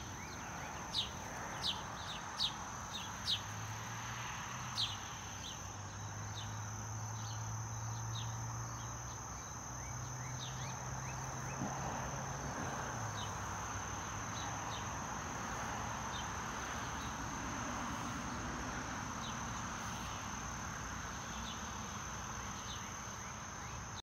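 Short, sharp bird chirps, several in the first five seconds and sparser after, over a steady high insect drone like crickets, with a low hum through the middle stretch.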